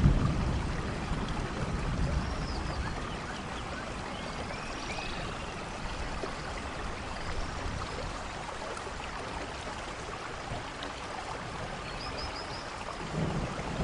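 Steady rainfall with water trickling and running, a continuous even hiss, with a few faint high chirps over it.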